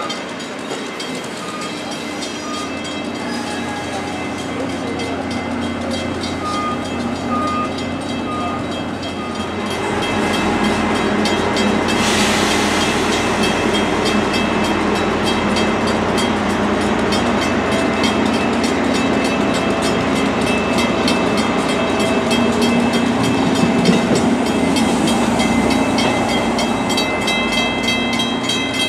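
Shore Line East commuter train of stainless-steel coaches rolling past and pulling away, with the steady rumble of wheels on rail and the diesel locomotive's engine, growing louder about ten seconds in. A brief hiss comes about twelve seconds in.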